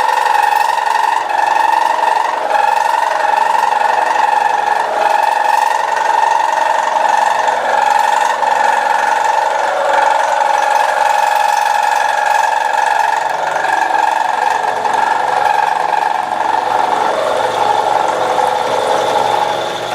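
Manual milling machine with a two-flute end mill cutting metal, hand-fed very slowly as it exits the back of the cut so it won't grab and break. The sound is a steady, loud tone with overtones.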